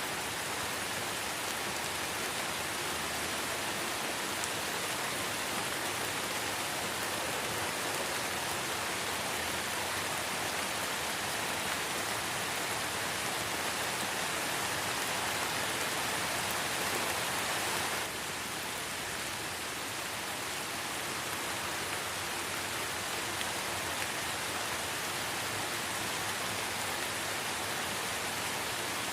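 Light rain falling in a forest: a steady, even hiss of drops that drops slightly in level about two-thirds of the way in.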